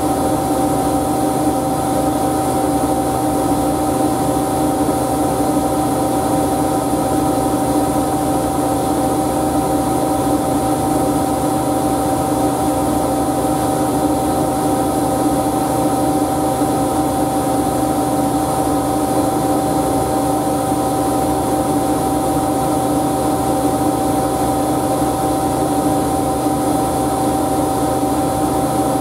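Siemens Siwamat washing machine running steadily, its motor giving a constant high whine over a lower hum that does not change.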